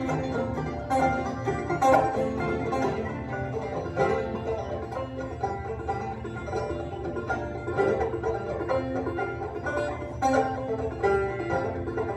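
Clawhammer-style banjo with a natural skin head playing a bluegrass tune, with acoustic guitar accompaniment.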